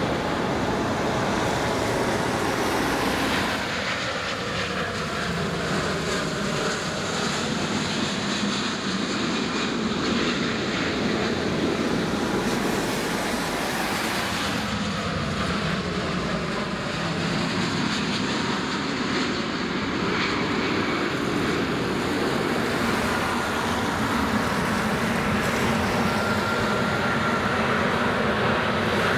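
Jet airliner engines running, a steady loud noise with a faint high whine coming in near the end.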